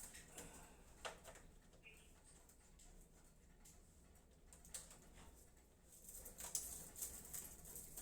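Faint, scattered clicks and rustles of hands handling computer parts and cables, with a small sharp click about a second in and a busier run of louder clicks near the end.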